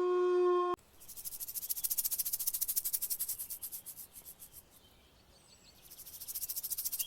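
A long held animal call cuts off under a second in. It is followed by a cricket chirping: a fast, high-pitched pulsing trill that fades away midway and starts up again near the end.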